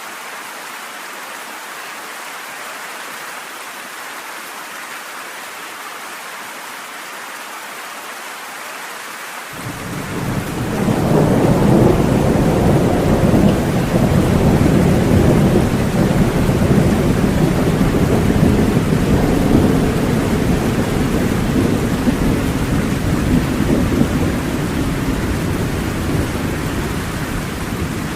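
Steady rain hiss, joined about ten seconds in by a long, deep rumble of thunder that swells within a couple of seconds, stays loud, and slowly fades toward the end.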